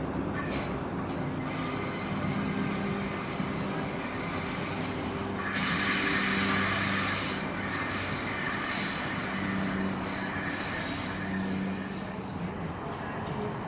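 A train moving along the platform with a high-pitched squeal of steel wheels on the rails. The squeal starts about a second in, is loudest around the middle and fades near the end, over a low steady hum.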